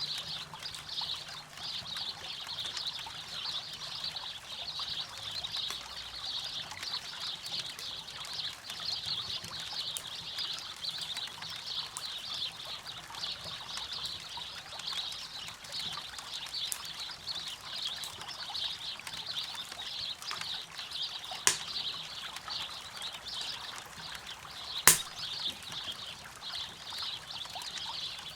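Campfire by a river: a dense, steady high chirping chorus over faint running water, with sharp crackling pops from the fire twice in the second half, the later one the loudest.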